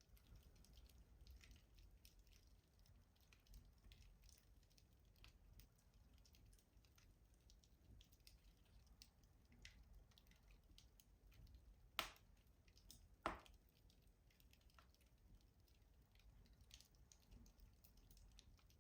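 Wood fire crackling faintly in a rustic wood-burning stove: scattered small ticks and snaps, with two louder pops a little over a second apart about two-thirds of the way through.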